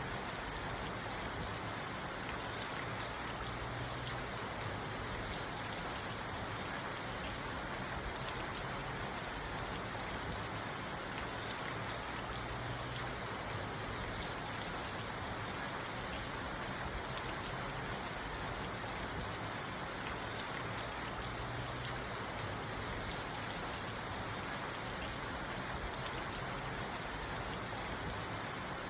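Steady rain falling on a parked car, a constant patter of drops on the roof and glass heard from inside the cabin.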